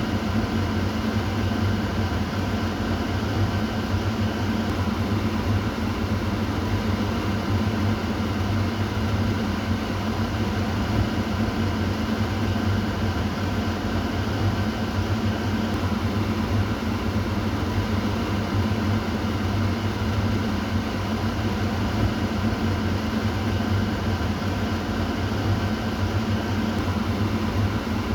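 Kitchen exhaust fan running steadily: an even rush of air over a constant low hum.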